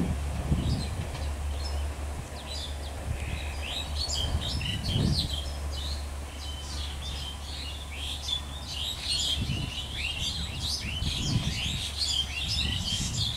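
Many small birds chirping in quick short calls, getting busier in the second half, over a low steady rumble from a train moving away.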